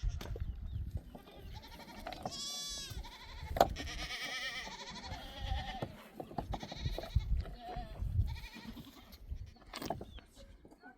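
A herd of goats and sheep bleating, with several wavering calls overlapping, under a low rumble. A single sharp click comes about three and a half seconds in.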